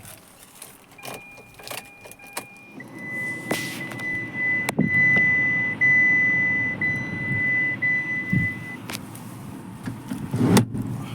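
A short higher electronic tone, then a steady high electronic beep held for about six seconds with brief breaks, over low rumbling and handling noise. Clicks and a loud thud come near the end.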